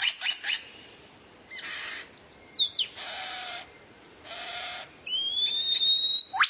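Recorded songbird calls, played as tutor song: a few quick sharp notes, then three harsh rasping calls about a second apart, and near the end a long whistle that ends in a sharp upward flick.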